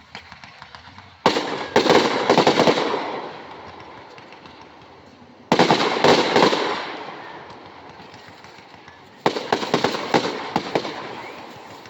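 Fireworks going off in three volleys of rapid crackling pops, each a quick run of sharp cracks that fades over a couple of seconds, about four seconds apart.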